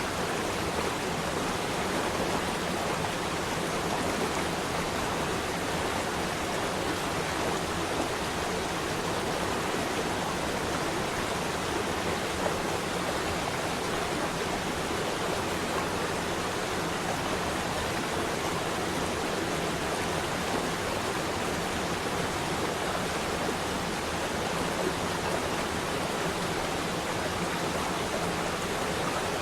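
Flowing water, such as a stream or small falls, running steadily in an even, unbroken wash of sound.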